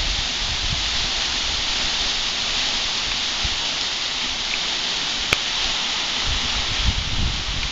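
Small waterfall splashing steadily, an even hiss of falling water. A single sharp click about five seconds in, and a few low rumbles near the end.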